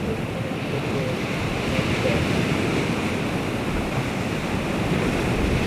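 Baltic Sea surf washing steadily on the shore, with wind buffeting the microphone.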